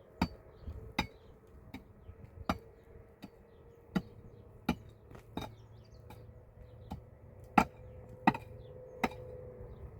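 Hammer striking repeatedly: about a dozen sharp blows at an even pace, a little under a second apart, the loudest one about three-quarters of the way through.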